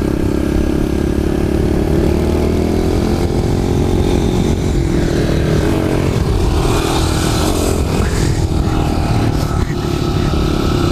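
Kawasaki KLX110 pit bike's small single-cylinder four-stroke engine running while being ridden, its pitch rising and falling with the throttle.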